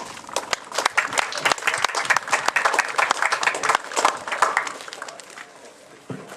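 Crowd applauding, dense hand-claps that thin out and die away about five seconds in.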